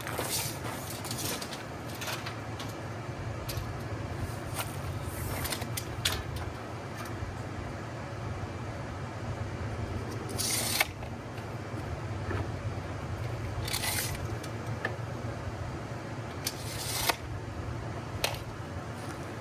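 Scattered clicks and three short scraping sounds, about 10, 14 and 17 seconds in, over a steady low hum.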